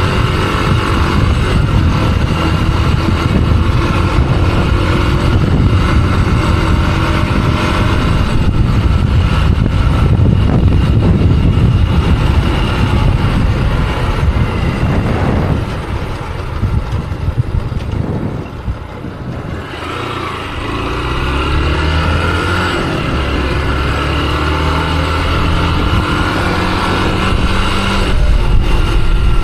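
Motorcycle running while riding, with dense road and wind rush. The sound drops off for a few seconds past the middle, then builds back up as the bike speeds up again.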